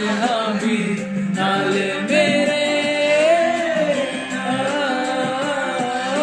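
Music: a Hindi song with a sung vocal line over instrumental accompaniment.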